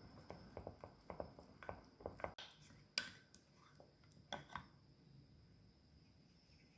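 Faint clicks and light taps of small kitchen items being handled: a quick run of them in the first two and a half seconds, one sharper click about three seconds in, and two more a second later.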